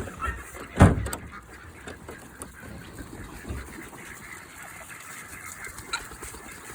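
Ducks quacking among other poultry, with a single loud knock about a second in.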